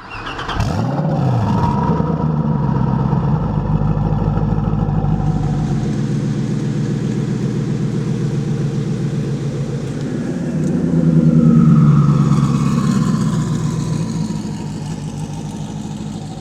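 Ford GT's 5.4-litre V8, upgraded with a Hennessey GT1000 twin-turbo system, running. Its pitch sweeps up in the first second or two, then settles into a steady note. About eleven seconds in it revs up louder, then eases back down.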